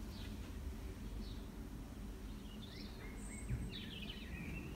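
Small birds chirping in short, scattered calls over a low, steady background rumble, with one soft bump about three and a half seconds in.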